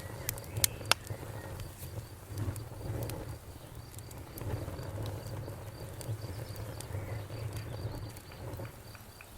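Wood fire crackling in a fireplace: several sharp loud pops in the first second, then scattered smaller crackles over a low steady rumble of the flames. A faint high rhythmic chirping runs underneath.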